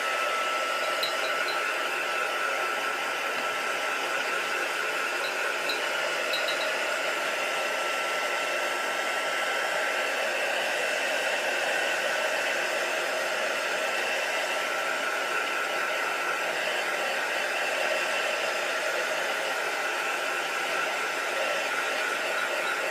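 Handheld hot-air dryer blowing steadily to dry wet acrylic paint, a rushing airflow with a thin steady whine running through it.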